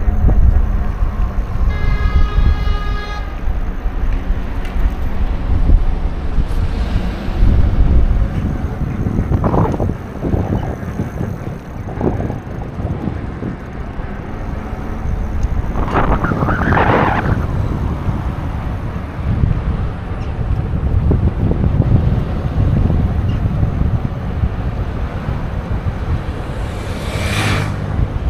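Low rumble of wind and road noise on the microphone of a moving bicycle, with passing traffic. About two seconds in, a horn toots briefly for about a second.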